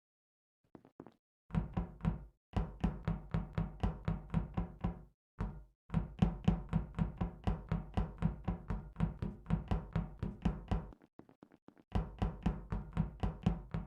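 A meme sound effect of rapid, heavy knocking, about four knocks a second, in runs with short breaks.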